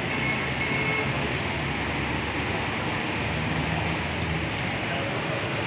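Steady hiss of rain falling on a wet road, mixed with the wash of traffic and a low engine hum. A brief faint high tone sounds near the start.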